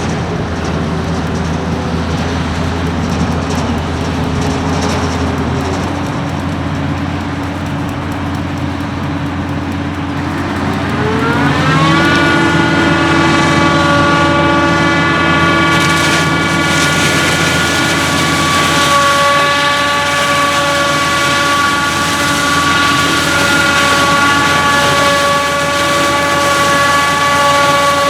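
Heavy diesel machinery running steadily, then revving up about ten seconds in and holding at high revs with a strong, steady whine.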